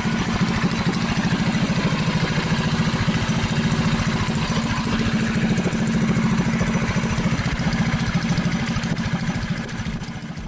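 Predator 224 single-cylinder four-stroke engine on a mini bike running steadily on its first start, with no chain hooked up so it is unloaded; it runs well. The level drops somewhat near the end.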